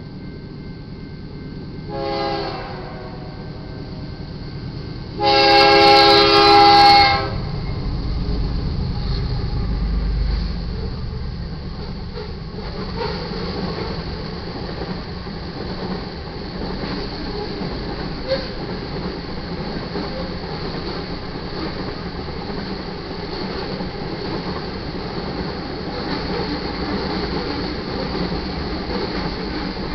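Freight train locomotive horn, on a lead GE Dash 9-44CW: one short blast, then a long, loud blast about five seconds in. The locomotives then pass with a deep engine rumble, and the freight cars roll steadily over the crossing with wheels clacking on the rail joints.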